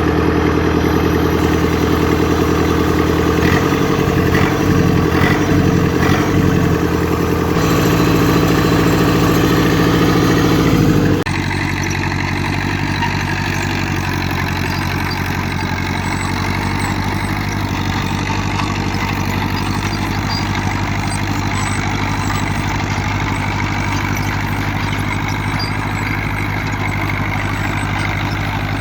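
Fiat 70C crawler tractor's diesel engine running. About a third of the way in the sound changes suddenly, dropping to a quieter, steady idle.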